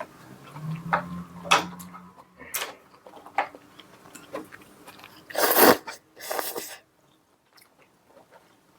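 Close-miked chewing and biting while eating braised spicy chicken stew: scattered wet mouth clicks and bites, with two louder breathy rushes of noise about five and a half and six and a half seconds in. After that it is nearly quiet.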